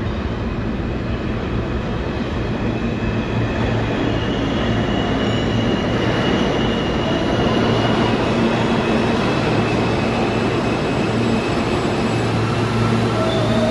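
New York City subway train running through the station: a steady loud rumble of wheels on rail with a low hum, and thin high-pitched wheel squeal that comes in about four seconds in and again near the end.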